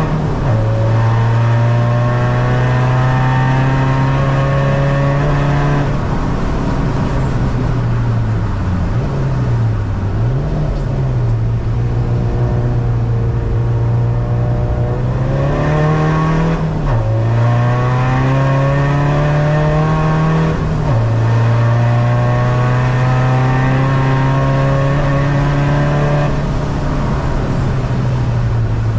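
Cabin sound of a tuned diesel SEAT Ibiza, about 250 bhp, driven hard on track. The engine note climbs slowly under load and drops sharply at each gear change, several times. About a third of the way in the pitch dips and recovers twice.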